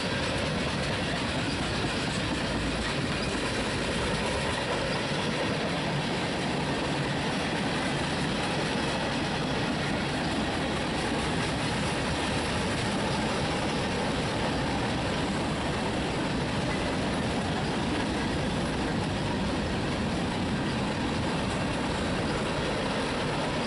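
Freight train of tank cars, covered hoppers and a boxcar rolling steadily past at close range: the continuous rumble and rattle of steel wheels on the rails.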